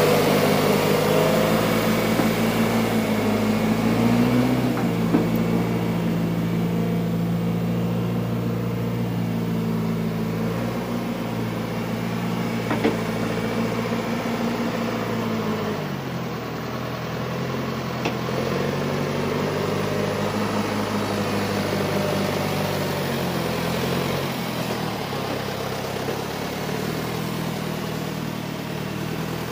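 John Deere 410 loader backhoe's diesel engine running steadily, its speed dropping about halfway through and again a few seconds later.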